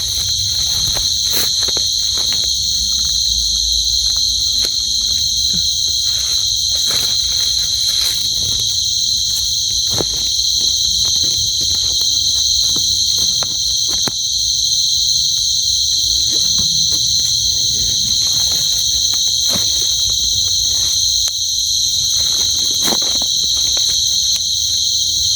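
A night chorus of insects such as crickets: a dense, unbroken high-pitched trilling on two steady pitches. Light clicks and rustles are scattered through it.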